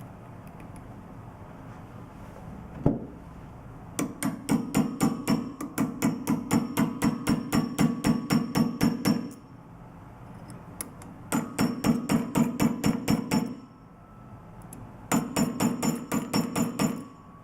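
A small hammer tapping a drive screw into the holes of a control valve's plug and stem to fasten the plug. There is one sharp knock, then three runs of rapid, even light taps at about five a second, with short pauses between the runs.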